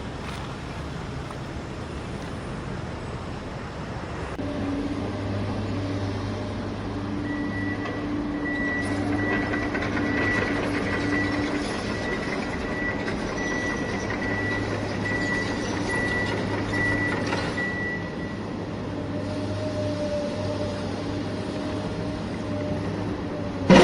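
A steady engine-like vehicle hum that starts about four seconds in, with a high repeating beep from about seven to eighteen seconds in, like a reversing alarm. A sudden loud sound comes at the very end.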